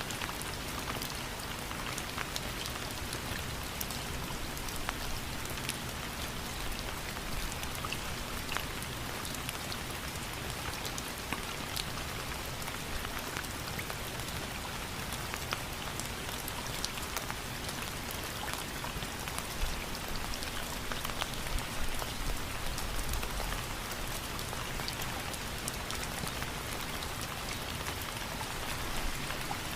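Steady rain falling and pattering on a surface, an even hiss full of individual drop ticks.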